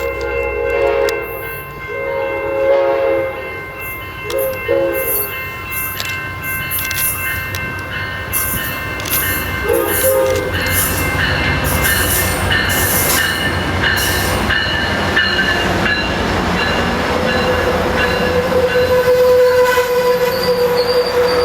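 Nathan K5LA five-chime horn on an Amtrak Pacific Surfliner F59PHI locomotive sounding several blasts, two long ones and then shorter ones, as the train approaches. The train then goes by with a rising rumble and rattle of wheels, and a steady high wheel squeal sets in near the end.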